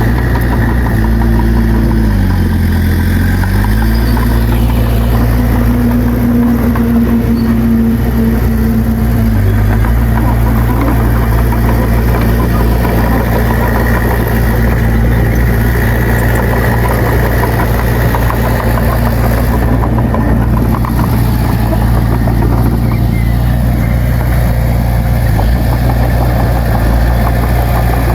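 Bulldozer diesel engine running steadily. Its pitch dips about two seconds in and comes back up a second or so later, as the engine bogs under load.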